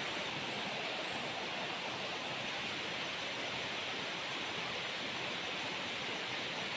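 Heavy rain falling steadily as an even hiss, with no separate knocks or thunder.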